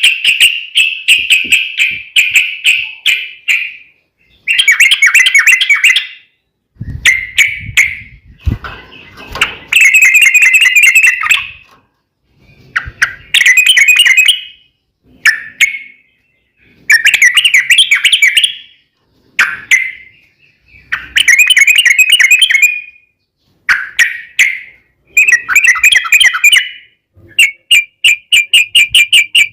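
Yellow-vented bulbul song: phrase after phrase of loud, fast chattering notes, each burst lasting a second or two with short pauses between them.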